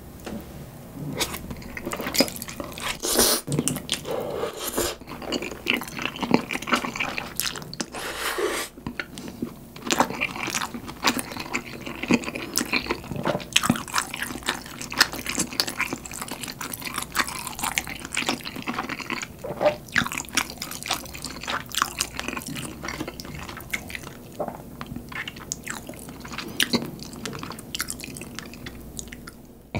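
Close-miked wet chewing of creamy spicy stir-fried noodles with bulgogi: sticky mouth smacks and clicks, irregular and dense throughout.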